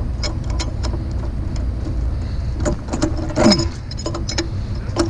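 Pieces of scrap metal clinking and clanking as they are handled and sorted, with a louder, ringing clank about three and a half seconds in. A steady low engine rumble runs underneath.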